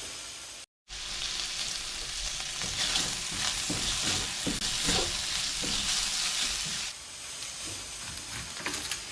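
Chopped meat sizzling in a frying pan while being stirred and scraped with a utensil. The sound cuts out briefly just before a second in, and the sizzle drops lower about seven seconds in.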